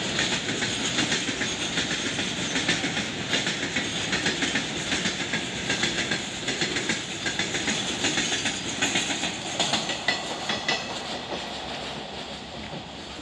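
Freight train of hopper wagons rolling past, its steel wheels clicking in a steady rhythm over the rail joints. The clatter grows fainter in the last few seconds as the brake van passes and the train draws away.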